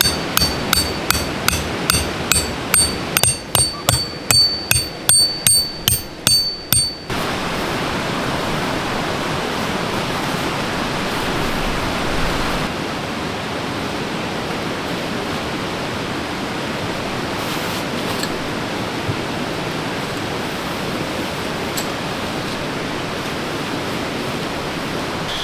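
Rapid hammer blows on metal, about three a second with a ringing tone, stopping about seven seconds in. A forest stream keeps up a steady rushing beneath and after them.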